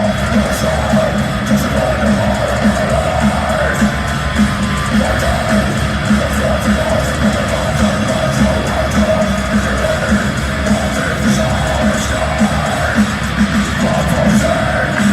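Loud live heavy metal music from a concert: guitars, a steady driving beat and yelled vocals.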